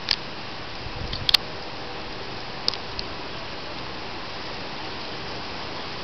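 Steady hiss of rain falling, with a few sharp clicks of nearby drops or taps, the loudest about a second in.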